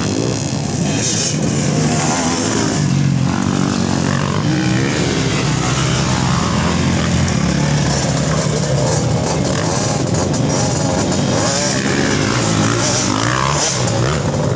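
Several motocross bikes racing, their engines revving hard and overlapping, with pitch rising and falling throughout.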